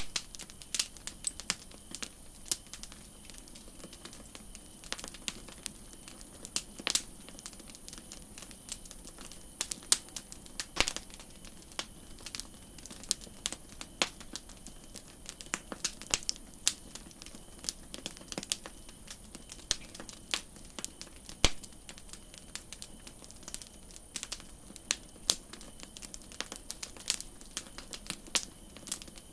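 Campfire crackling: irregular sharp snaps and pops of burning wood, a few much louder than the rest, over a steady high hiss.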